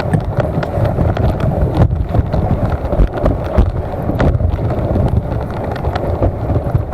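Wind buffeting the microphone with a steady low rumble, with irregular small knocks and clicks throughout.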